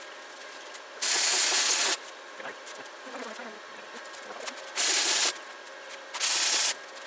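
Welder arcing in three short bursts, the first about a second long and the next two about half a second each, with quiet crackly pauses between: tack welds on a lawn-mower differential.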